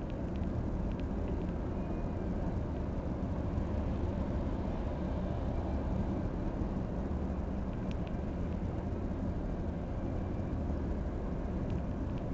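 Steady low rumble of an engine running, with a few faint clicks.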